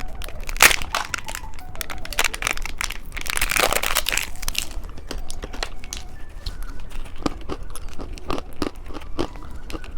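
Plastic candy packaging crinkling and being torn open, with many small sharp clicks and taps; the longest, loudest crinkling comes about three to four and a half seconds in.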